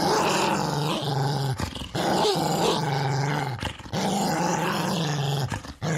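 Large, angry dog growling: a run of long, sustained growls, each about one and a half to two seconds, broken by brief breaths between them.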